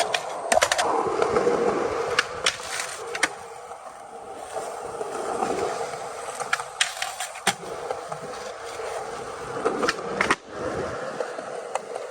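Skateboard wheels rolling on pavement, with a series of sharp clacks from the board's tail and wheels striking the ground.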